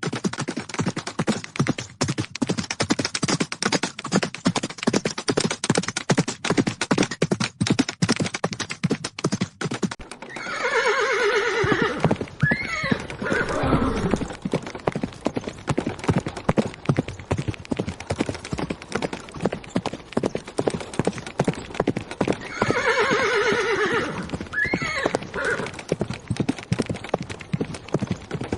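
Horses galloping, a fast, dense clatter of hoofbeats, with a horse neighing twice: one long whinny that falls in pitch about ten seconds in, and the same again about twenty-two seconds in.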